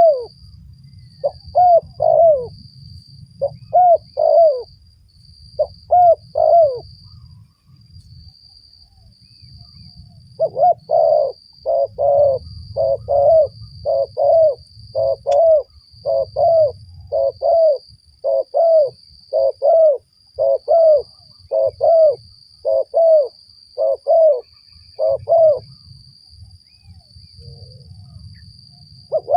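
Spotted dove cooing: a few short two-part coos, then after a pause of a few seconds a long, fast run of evenly repeated coos that stops near the end.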